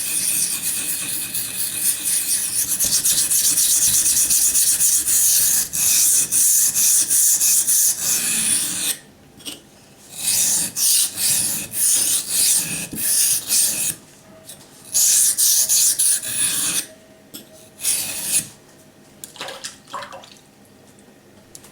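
Steel knife blade being stroked back and forth on a coarse sharpening stone with a harsh scraping sound, continuous at first, then in several shorter runs of strokes with pauses between them, fading to a few faint scrapes near the end.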